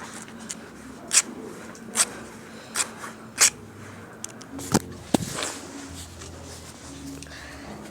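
Dry leaves and twigs crackling and snapping in a small drum fire: about six sharp, irregular snaps over a faint rustle.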